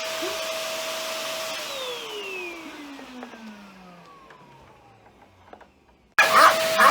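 Iwoly V600 corded stick vacuum cleaner running, then switched off about a second and a half in: its motor whine falls steadily in pitch and fades as the motor spins down. Near the end it comes back on abruptly.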